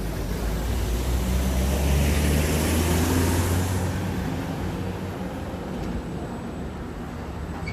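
A motor vehicle passes close by: its engine hum and tyre noise build up, are loudest about two to three seconds in, and then fade away.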